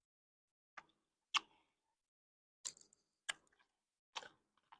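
A few faint, sharp clicks, five of them spread unevenly over about four seconds, with near silence between.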